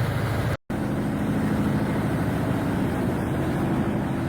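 Heavy machine engine running at a steady pitch, a constant low hum. The sound cuts out completely for an instant about half a second in, then resumes unchanged.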